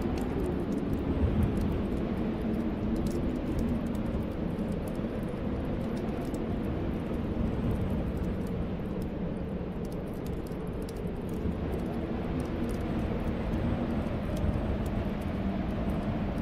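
Snowstorm wind blowing in a steady low rumble with faint wavering whistling tones, over the light crackle of a wood fire.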